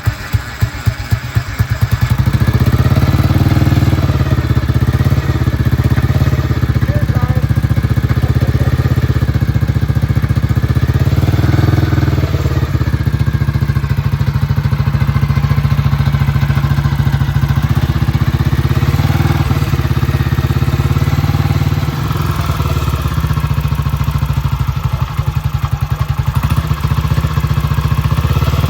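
A BSA Gold Star DB34's single-cylinder engine catches, its firing beats quickening over the first couple of seconds, then runs steadily. It is revved up and back down twice, briefly.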